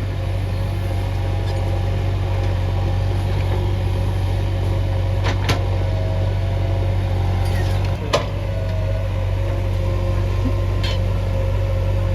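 Heavy diesel engine running steadily, with a low even hum, and a couple of short sharp knocks about five and eight seconds in.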